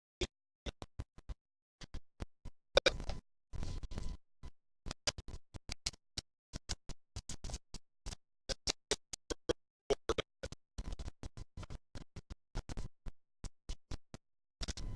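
Choppy, broken-up audio: short snatches of sound cut off by dead silences several times a second, the stutter of a faulty audio feed dropping out.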